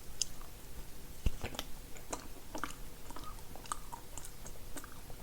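A person biting and chewing green food, a run of irregular short crunches and wet mouth clicks, with one louder thump about a second in.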